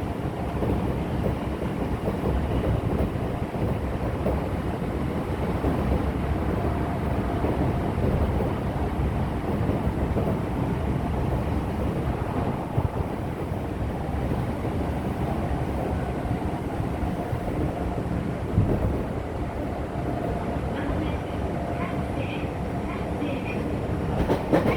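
Odakyu 8000-series electric train running at speed, heard from inside a motor car: a steady rumble of wheels on rail with a faint steady whine from the Mitsubishi IGBT-inverter traction motors.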